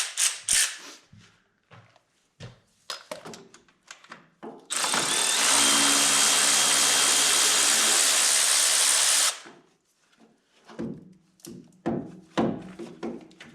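A few tool clinks and knocks, then a power tool runs steadily for about four and a half seconds and cuts off, as a fastener on the starter line of a Camaro engine is removed; more clinks follow.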